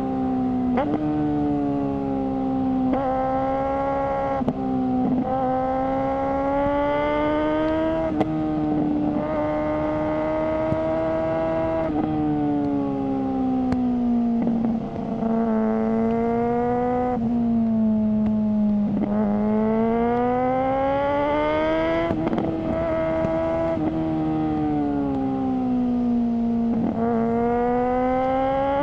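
Suzuki GSR600's inline-four engine through a GPR Ghost aftermarket exhaust, ridden on the road. The note climbs in pitch through each gear and drops back sharply at every upshift, about every two to four seconds, with a slower fall in pitch in the middle as the bike slows.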